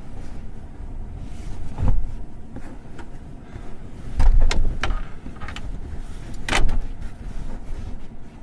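Steady low rumble of storm wind buffeting the truck and its topper, with a handful of short knocks and rustles from someone moving about inside; a cluster comes near the middle and the loudest about two-thirds of the way through.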